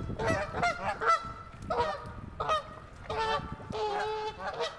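Geese honking, a quick run of repeated calls, some overlapping.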